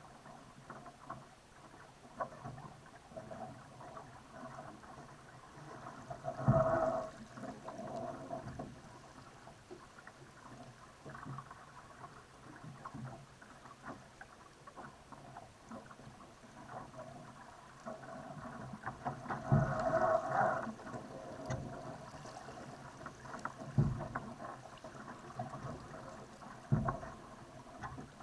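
Water rushing and slapping against a Laser dinghy's hull under sail, with irregular knocks as the boat hits the waves and two louder splashing surges, about six seconds in and around twenty seconds in.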